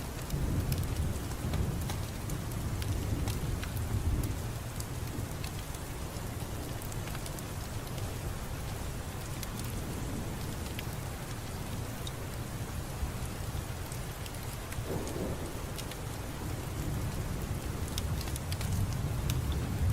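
Steady rainfall with scattered drops ticking, under low rolling thunder that rumbles through the first few seconds, eases off, and builds again near the end.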